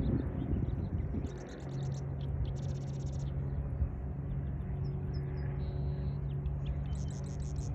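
Small bird chirping in quick runs of rapid high notes, with a few single chirps and one short held whistle, over a steady low hum.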